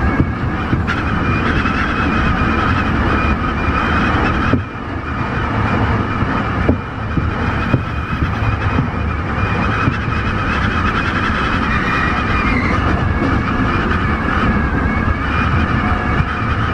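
Tobu 50090-series electric train running, a steady rumble of wheels on rail with a steady motor whine over it.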